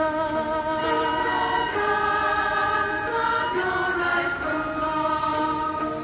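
Background music: a choir singing long, slowly changing held notes.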